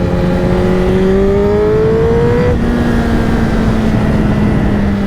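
Honda CBR1000RR-R's inline-four engine running while riding, over heavy wind rush. Its pitch rises for about two and a half seconds, then it settles to a steady tone.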